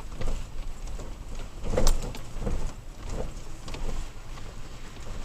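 Toyota Tacoma pickup driving slowly over a rough dirt track, with a steady low road rumble and a series of uneven knocks and jolts from the truck bouncing over bumps. The hardest jolt comes about two seconds in.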